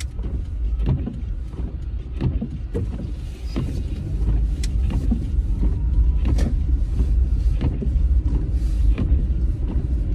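Car being driven on a snowy road, heard from inside the cabin: a steady low road-and-engine rumble with scattered light clicks and knocks.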